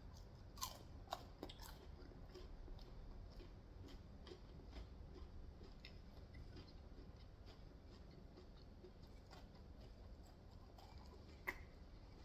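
Faint close-up chewing and small mouth clicks from someone eating. A few sharper clicks come in the first couple of seconds and one more near the end.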